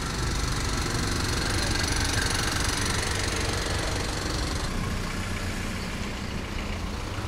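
Car engines idling in a line of stopped traffic: a steady low engine hum, with a higher hiss above it that drops away a little past halfway.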